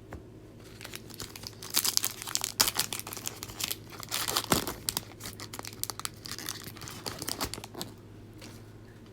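Plastic wrapper of a trading-card pack crinkling and tearing as it is handled and opened, in a run of sharp crackles.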